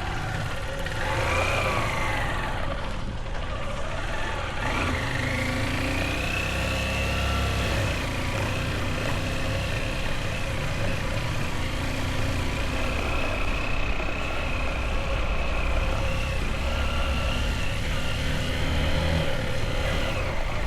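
Motorbike engine running while riding. Its pitch rises and falls a few times in the first five seconds, then holds fairly steady over a constant low rumble.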